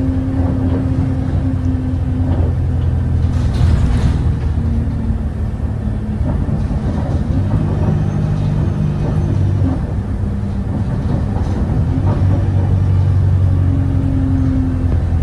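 Cummins ISBe diesel engine of an Alexander Dennis Enviro 200 bus heard from on board, running steadily with its note stepping up and down in pitch as the bus drives. A brief hiss about three and a half seconds in.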